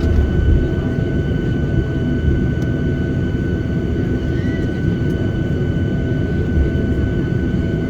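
Boeing 737-800 taxiing at low speed, heard inside the cabin: the CFM56-7B jet engines at idle give a steady low rumble with a thin, steady whine over it.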